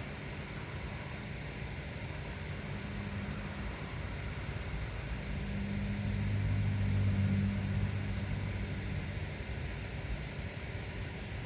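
Pickup truck engine idling with a steady low rumble. About five seconds in, a low hum swells up, peaks and fades away again a few seconds later, like a vehicle passing.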